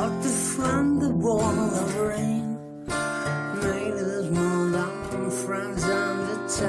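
Acoustic guitar strummed in a song's wordless instrumental ending, with a wavering melody line over the chords and a brief break about two and a half seconds in.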